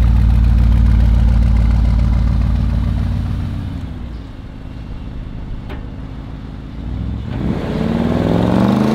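Audi RS Q8's twin-turbo V8 running with a steady low rumble that fades off partway through, then revving up with a rising pitch near the end as the car accelerates.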